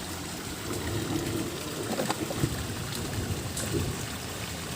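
Steady hiss of falling rain and trickling water, with a few faint clicks and knocks.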